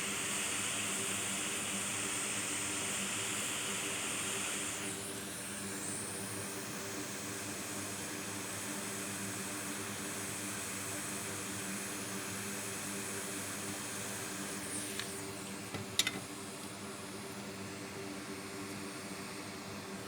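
Steady hiss of blowing air from bench equipment over a low hum. The hiss drops off abruptly about five seconds in and the hum continues. A single sharp click comes near the end.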